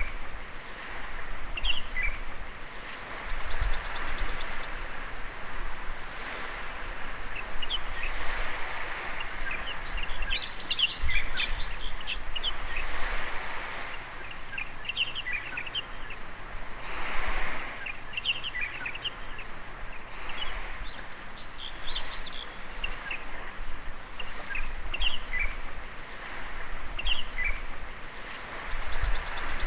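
Small birds chirping and calling in short bursts all through, with a quick high trill twice, over the steady wash of waves on a beach.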